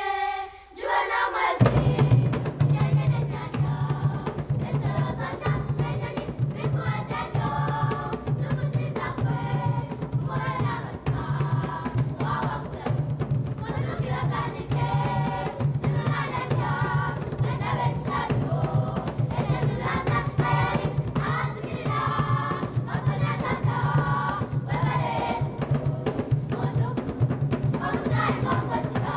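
Children's choir singing in harmony, unaccompanied at first, with a steady drum beat coming in about two seconds in.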